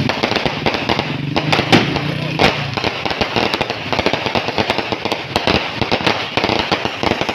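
Fireworks and firecrackers going off in a dense, continuous crackle of rapid bangs and pops.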